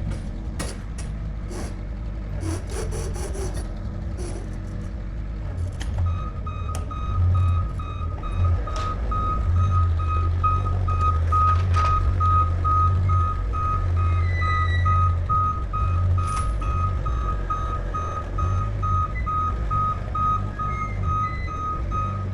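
A low mechanical drone with a few knocks and clicks, then from about six seconds in a rapid, steadily repeating high electronic beep, like a vehicle's reversing or movement warning.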